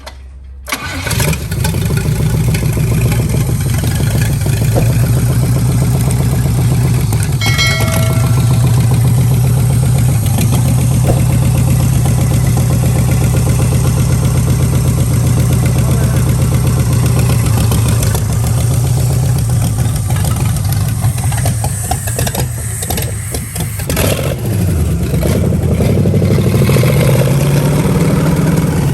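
A junkyard Pontiac 350 V8 on a makeshift run stand is cranked and catches about a second in, then keeps running steadily. Near the end the revs dip briefly and come back up.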